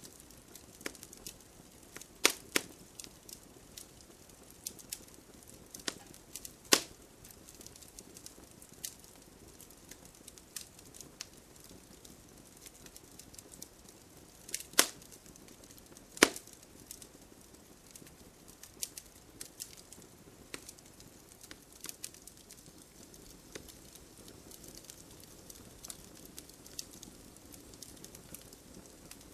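Wood campfire crackling, with frequent small snaps and a few louder sharp pops over a soft low hiss of burning.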